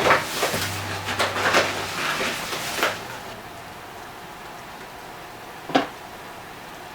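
A run of knocks and clatters from objects being handled, typical of cupboard or drawer use, for about three seconds. Then a steady soft hiss with a single sharp knock near the end.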